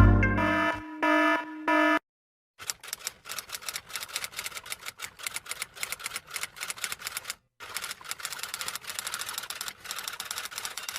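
Typewriter keys clacking in a fast, uneven run of sharp strikes, with one short pause about halfway through. A short musical sound effect ends in the first two seconds.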